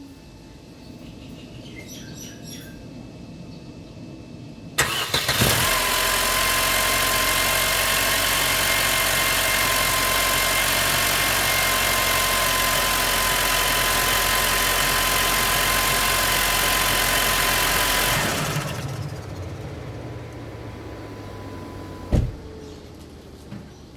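Mercedes W204 C250's 1.8-litre four-cylinder petrol engine started with a sudden loud burst about five seconds in, then running loudly and steadily with abnormal noise traced to a faulty timing chain gear. About thirteen seconds later the sound drops off to a lower level, and a single sharp knock comes near the end.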